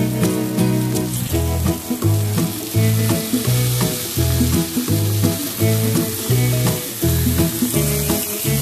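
Mushrooms sizzling and frying in a ridged grill pan as they are turned with tongs. Background music with a steady bass line plays over it.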